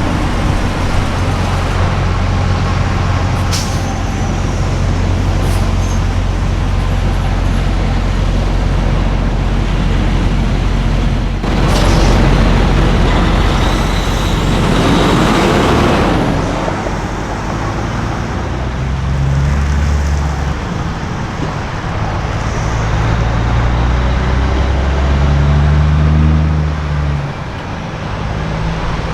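Heavy diesel semi trucks passing, their engines droning low. There is a short sharp hiss about eleven seconds in. Midway, a truck goes by close with a swell of tyre and road noise. Later, an engine note changes pitch in steps.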